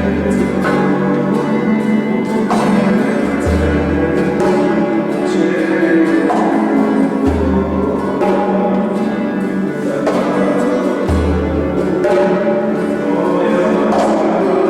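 Band music with sustained chords over a low bass line that moves to a new note about every three and a half seconds, with light percussion.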